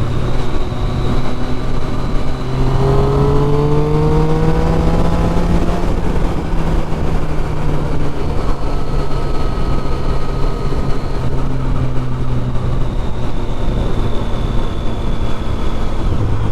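Triumph Street Triple 675's three-cylinder engine through a loud exhaust, rising in pitch as the bike accelerates about three seconds in, then holding steady at speed and easing off slightly near the end. It runs over a steady low rushing noise.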